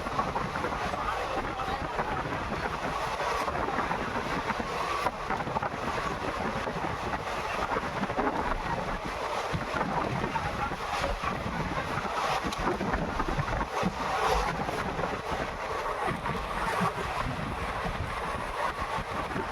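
Running noise of a moving train, a steady rush of wheels on rails with wind blowing on the microphone.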